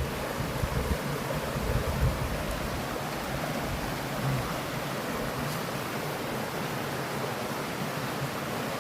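Mountain stream flowing and rushing over rocks, a steady even splash with a few low knocks in the first two seconds.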